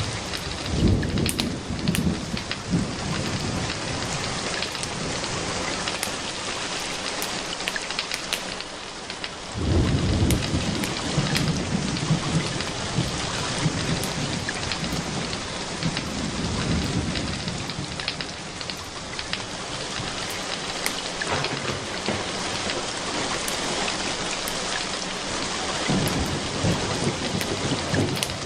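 Steady rain with low rolls of thunder that swell up several times, about a second in, near ten seconds, around sixteen seconds and near the end. Sharp ticks of drops or crackles are scattered through it.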